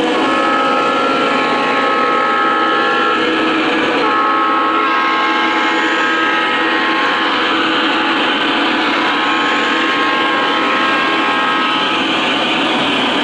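O gauge model train running on the layout, its sound system blowing the horn twice. The first blast lasts about three seconds and the second about eight, over the steady rumble of the train on the track.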